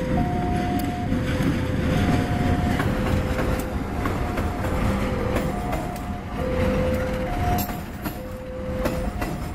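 Diesel locomotive and passenger coaches passing close by with a steady low rumble of engine and wheels. Over it, a level-crossing warning alarm sounds an alternating two-tone signal, one note after the other, each under a second long.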